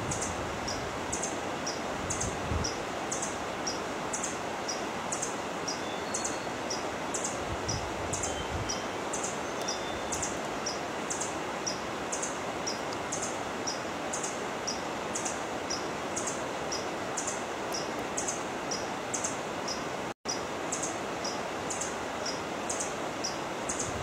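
A small bird's high chirp repeating at an even pace over a steady rushing background hiss. The sound cuts out for an instant about twenty seconds in.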